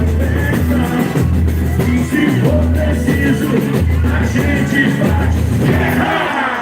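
Live boi-bumbá toada played loud by the band, with a heavy pulsing bass-drum beat under the melody.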